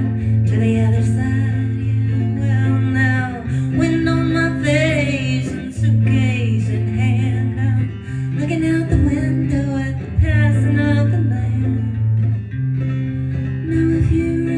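Acoustic guitar strummed through a folk song, with a steady alternating bass line and a voice singing a wordless melody over it in places.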